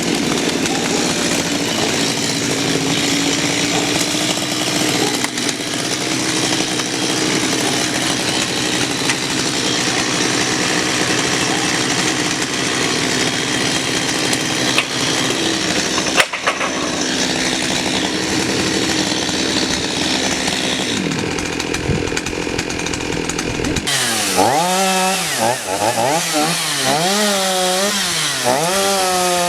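Chainsaw running under load as it cuts through wood, a steady loud engine note with cutting noise. Near the end the engine pitch rises and falls over and over, a little more than once a second, as the throttle or the load on the bar changes.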